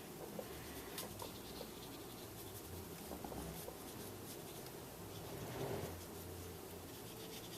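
Faint, soft strokes of a water brush on card paper while colouring, with a few light ticks.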